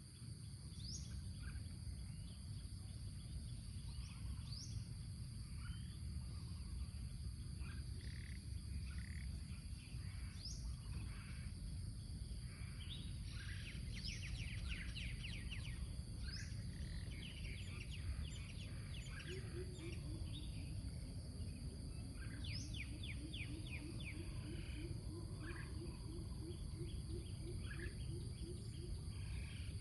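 Wild birds calling and singing: many short, rising whistled calls and fast trills, scattered throughout, over a steady low rumble and a constant high-pitched drone. From about two-thirds of the way in, a low call pulses about three times a second.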